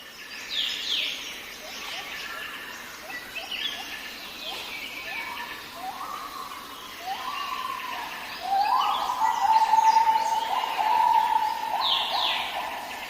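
Several birds calling: quick falling whistles high up throughout, and from about six seconds in a run of lower, level whistled notes about a second long each, loudest near ten seconds, over a faint steady hiss.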